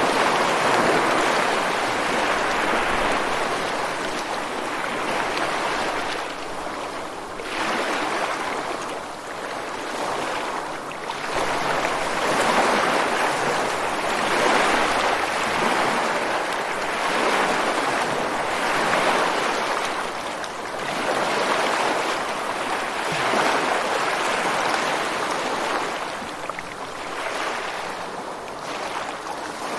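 Ocean surf breaking on a beach: a continuous rush of water that swells and eases every few seconds as successive waves come in.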